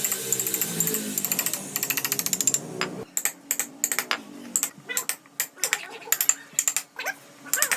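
A fast, even run of clicks for about three seconds, then after a sudden change a series of irregular sharp taps and clicks.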